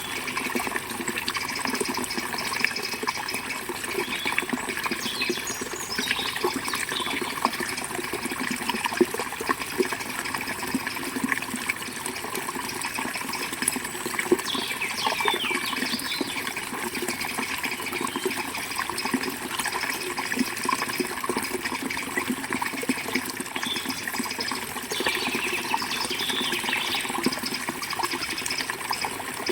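Steady rush of a forest river flowing, with small birds chirping in short bouts about a quarter of the way in, around the middle, and near the end.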